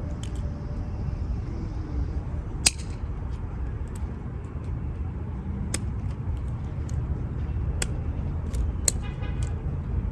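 Steady low outdoor rumble with a few sharp clicks, spaced a couple of seconds apart.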